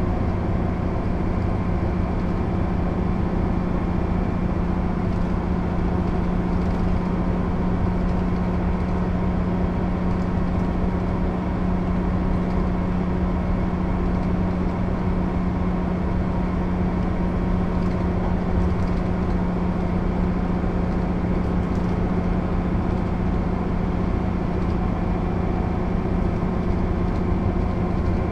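Mercedes-Benz O 407 bus's six-cylinder diesel engine running at a steady, unchanging pitch, with no gear change or rev change.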